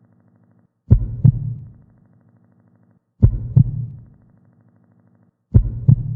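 Heartbeat-style sound effect: a double thump three times, about two and a third seconds apart, each pair trailing off in a fading low hum.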